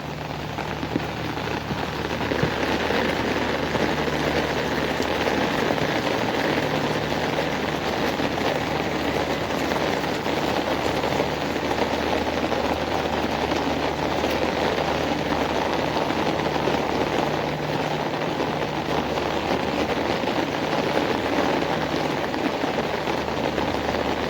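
Heavy rain falling steadily, a dense hiss that swells over the first couple of seconds and then holds, with a low steady hum underneath.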